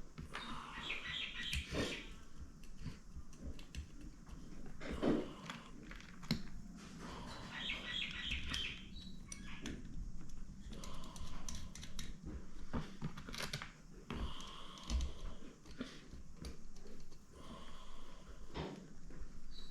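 Light metal clicks and taps as the top-cover screws go back into a Stromberg carburettor and are turned in. Birds call in the background in short bursts every few seconds.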